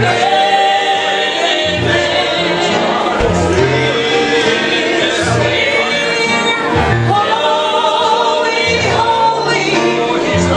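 Gospel singing by a group of voices over instruments, with a bass line that moves from note to note every second or so.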